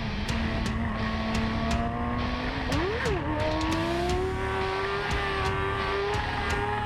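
Yamaha R6's inline-four engine under way, holding a steady note. About three seconds in it gives a quick blip of the throttle, then the pitch climbs steadily as the bike accelerates. A dense low rumble of wind and road noise runs underneath.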